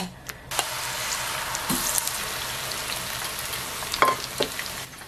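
Flour-battered Japanese angelica-tree shoots sizzling in hot oil in a small frying pan, the dense crackling hiss starting suddenly about half a second in as the last batch goes into the oil. Two light clicks near the end.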